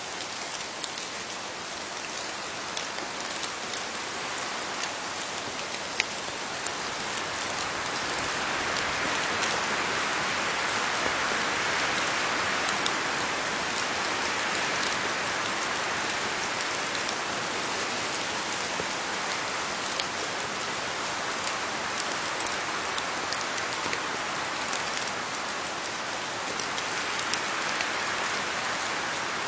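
Steady rain falling on leaves, a dense patter scattered with single sharper drop hits, swelling a little in intensity after about eight seconds.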